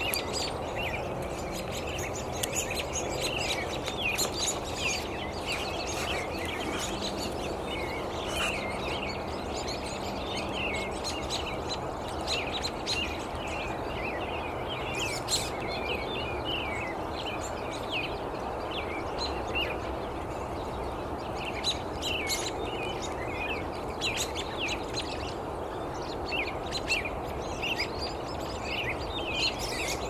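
Songbirds chirping, a fast, continuous stream of short high calls, over a steady background rush of outdoor noise.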